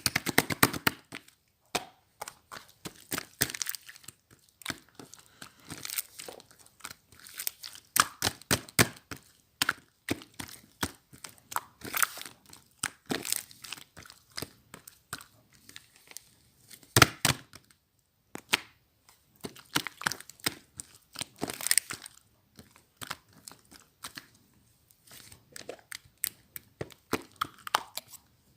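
Slime being squeezed, stretched and folded by hand, giving irregular crackling clicks and pops with short pauses between handfuls.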